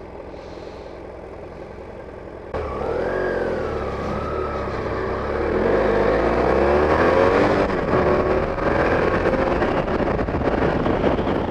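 Motorcycle engine running steadily, then about two and a half seconds in it gets louder as the bike pulls away. The engine's pitch climbs and drops several times as it accelerates through the gears.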